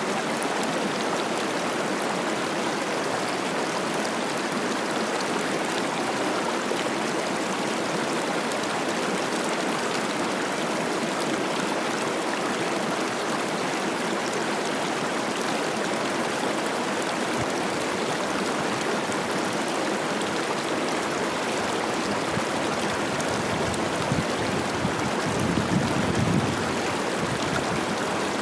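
Cache la Poudre River running high with spring snowmelt: a steady rush of flowing water. Near the end a brief low rumble rises over it.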